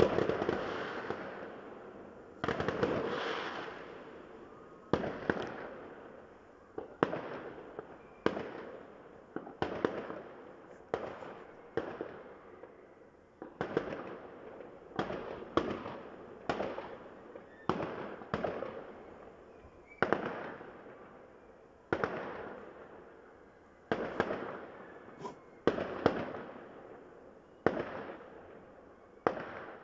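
Aerial fireworks display bursting, with a sharp bang every second or two and each bang trailing off in a rolling echo.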